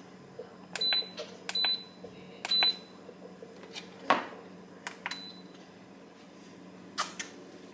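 Button presses on an electronic appliance's keypad: three short high beeps in the first three seconds, each with a click, and a fainter beep a couple of seconds later. A knock comes about four seconds in and another near the end, over a steady low hum.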